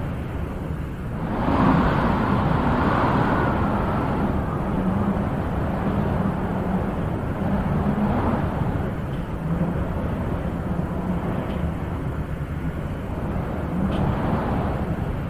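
Wind blowing steadily, with a stronger gust swelling up a couple of seconds in and easing off.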